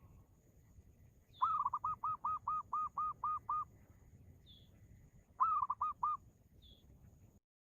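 A bird calling: a run of about nine quick, evenly repeated notes, about four a second, then after a pause a shorter run of four, with a few faint high chirps between.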